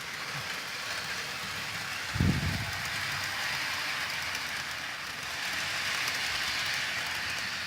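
HO-scale model train running along the track: a steady rushing whir of the metal wheels on the rails and the locomotive's motor, with one low thump about two seconds in.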